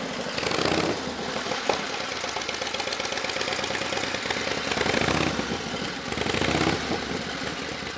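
1929 Harley-Davidson JDH two-cam V-twin engine running through a homemade stepped exhaust, a rapid, even train of firing pulses. It swells louder briefly near five seconds and again around six and a half seconds.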